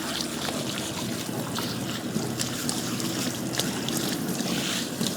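Water running steadily, with small splashes and drips breaking through.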